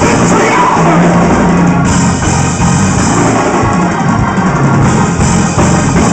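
Loud live gospel praise-break music: organ and drum kit playing continuously.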